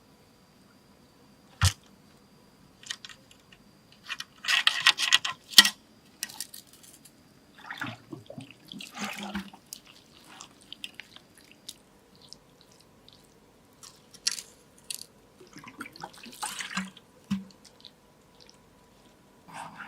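Water splashing and sloshing in short irregular bursts, with scattered ticks and a sharp knock about two seconds in.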